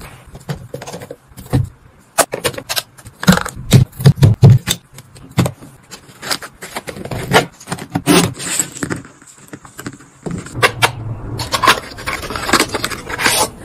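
Packaged items and plastic containers being handled and set down in quick succession: irregular clicks, taps and crinkly scrapes, loudest about two to four seconds in.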